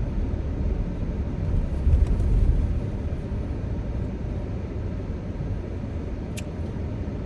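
Car engine running, heard from inside the cabin as a steady low rumble, with one short click near the end. The car is shaking with its check engine light blinking, a fault that has come back despite a replacement engine.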